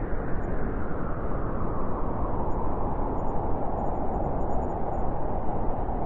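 Blizzard wind blowing steadily as a deep rushing noise, with a howl that grows stronger over the second half.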